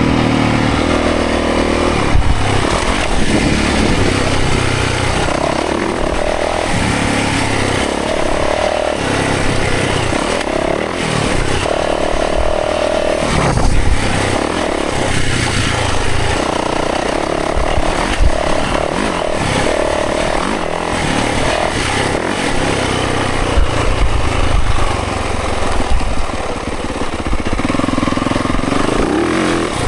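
Dirt bike engine revving up and falling back again and again as it is ridden along a trail, over a steady rush of noise with scattered knocks.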